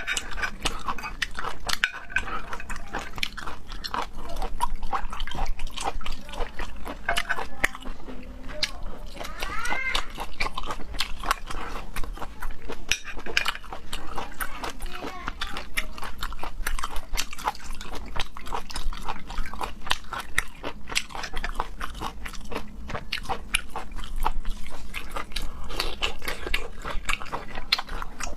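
Close-miked eating sounds: a dense, irregular run of wet chewing, biting and mouth clicks.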